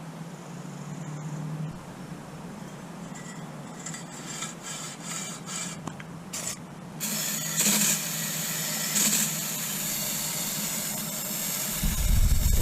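Hand scraping and rubbing strokes on the motorcycle's exhaust gasket sealing surface, followed from about seven seconds in by a steady hiss. A loud low rumble starts just before the end.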